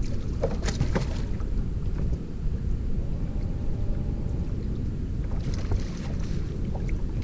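Wind buffeting the microphone on a small fishing boat, a steady low rumble, with a few light clicks about half a second to a second in.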